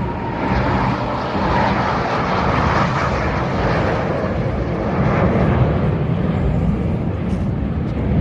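Jet engine noise from Chengdu J-10 fighters flying a low display pass, a steady, loud noise that swells in the first few seconds and eases off.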